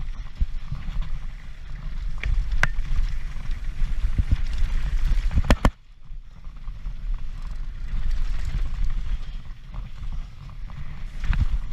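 Wind rumble and buffeting on a GoPro riding a Transition Patrol mountain bike downhill at race speed, with the bike rattling over rough ground and a few sharp knocks. The noise drops briefly just before the middle, then picks up again.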